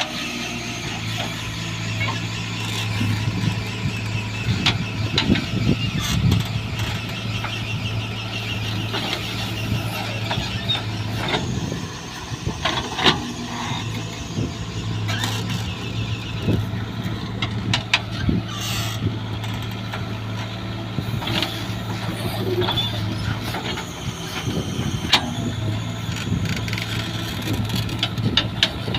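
Heavy diesel engine of farm machinery running steadily, with scattered metallic clanks and knocks. The engine dips briefly twice, about twelve seconds in and again near twenty-four seconds.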